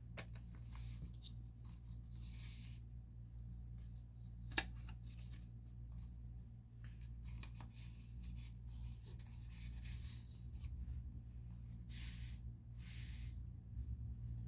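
Paper pages of a handmade junk journal being handled and turned: soft rustles and swishes, with one sharp tap about four and a half seconds in, over a steady low hum.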